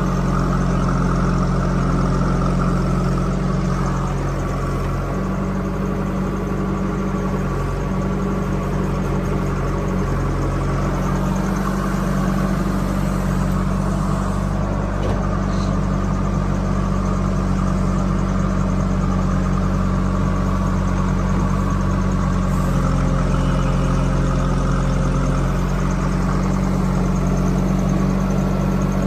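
A diesel engine of heavy machinery running at a steady, even speed, with little change in revs.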